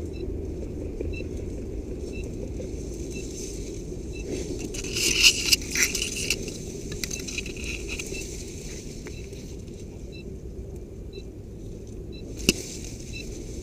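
Rustling and crackling of brush and gear as an airsoft player moves, over a steady low rumble, with a loud burst of rustling about five seconds in. A faint short beep sounds about once a second, and a single sharp snap comes near the end.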